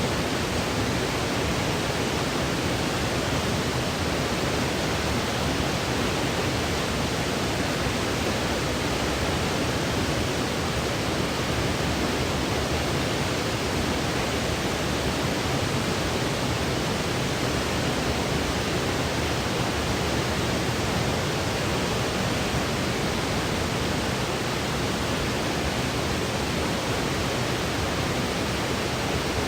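Steady synthetic white noise: an even, unchanging hiss that never breaks or shifts in level.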